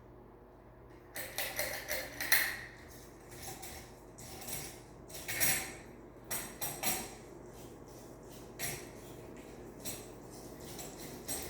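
A series of irregular light clinks and rattles of hard parts being handled, starting about a second in and continuing on and off.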